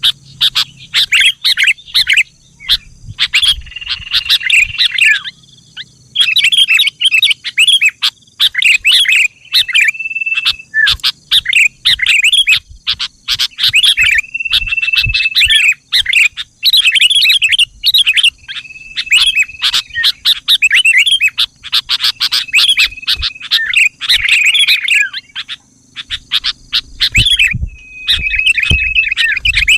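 Sooty-headed bulbul (kutilang) singing: phrases of quick chattering notes, several with a held whistled note, repeated every couple of seconds with short pauses between.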